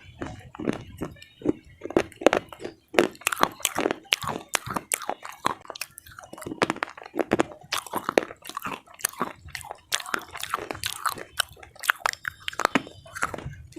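A person biting and chewing hard pieces of slate close to the microphone, many sharp crunches in quick succession.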